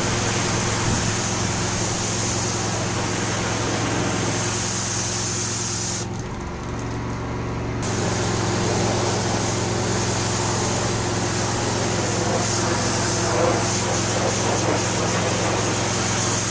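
Pressure washer jetting water onto a patio, its hiss over the steady hum of the machine's engine and pump. The spray cuts out for about two seconds near the middle while the machine keeps running, then starts again.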